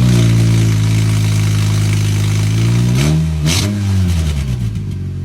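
Honda Accord engine revved and held for about three seconds, then let fall, with a second short blip of the throttle a moment later, running with a raspy exhaust leak. It cuts off abruptly.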